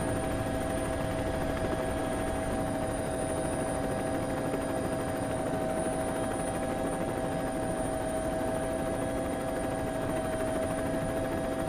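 Steady mechanical engine drone at a constant pitch, holding level throughout with no rise or fall.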